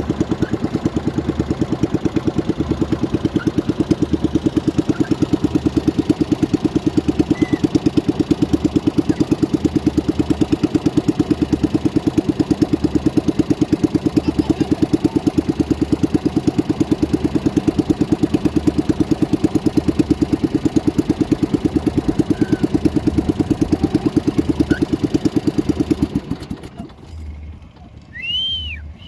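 Small boat motor running steadily with a fast, even putter, then cutting off about four-fifths of the way through; a short rising-and-falling chirp follows near the end.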